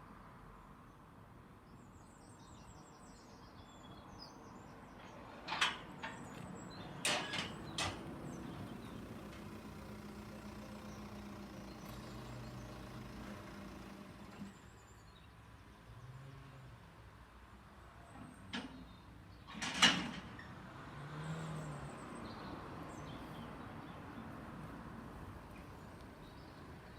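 Sharp clunks and knocks over a faint low background hum: a quick cluster of several, then one louder clunk later on, with faint bird chirps near the start.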